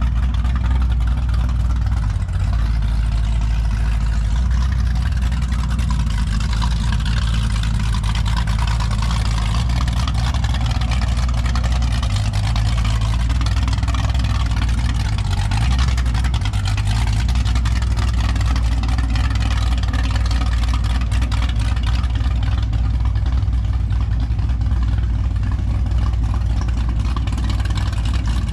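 Motorboat engine running steadily, a loud low hum that holds even throughout.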